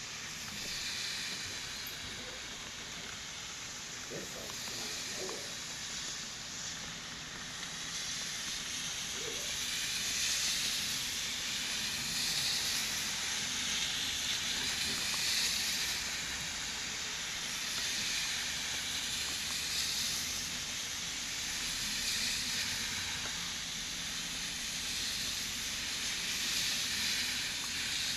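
Rain falling steadily: a constant hiss that swells and eases every few seconds.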